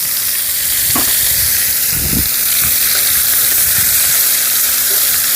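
Lamb sizzling steadily on a cast-iron cauldron lid, with a few soft low knocks.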